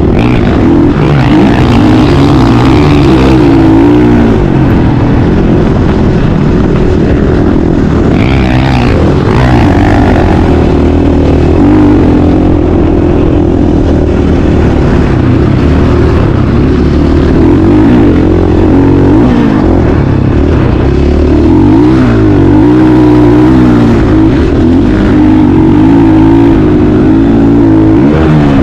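Motocross bike engine, loud and close, revving up and down again and again as the bike is ridden.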